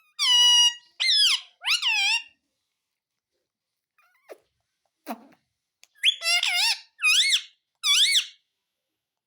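Ringneck parrot giving short, high-pitched calls that bend up and down in pitch: three in the first couple of seconds, then a pause, then three more from about six seconds in.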